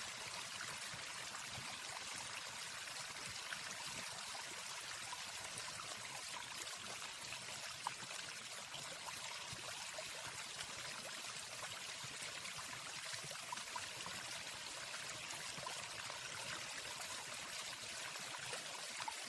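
Steady rushing water of a waterfall, an even hiss with no birdsong over it.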